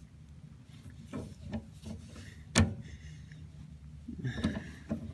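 Hands-on work with tools and parts: a few soft knocks and scrapes, and one sharp clack about two and a half seconds in, over a steady low hum.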